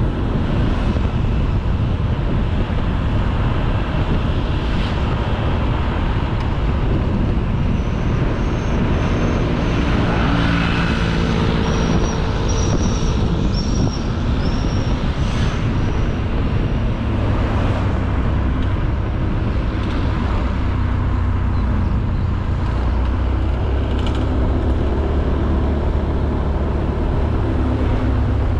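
Honda Beat 110cc single-cylinder scooter engine running steadily on the move, with wind rush and road noise on the microphone. A run of short high-pitched chirps comes between about a third and halfway through.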